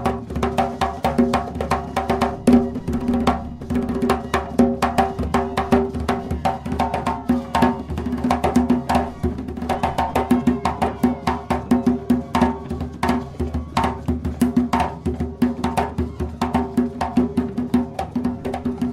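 Colombian gaita music: held notes from the gaitas (cane duct flutes) over dense, fast hand-drum percussion.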